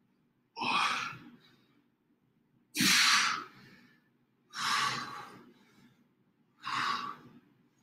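A man breathing out hard in rhythm with his wall push-ups. Four forceful, hissy exhalations come about two seconds apart.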